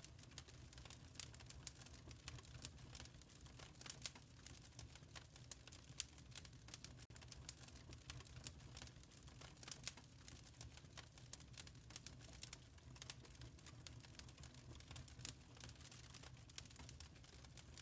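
Fireplace wood fire crackling softly: irregular small pops and snaps over a low steady rumble.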